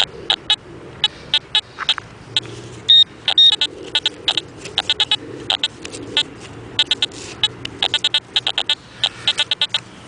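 Metal detector chirping out many short, irregular electronic beeps, with a louder, longer high beep about three seconds in.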